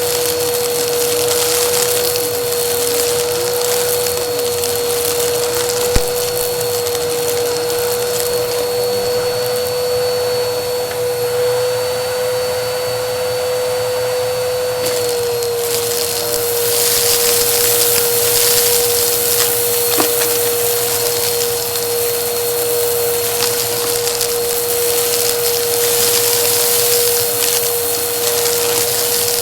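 Vacuum cleaner running steadily on a rug, with a high motor whine over a rushing hiss. In the second half come stretches of crackling as bits of debris are sucked up.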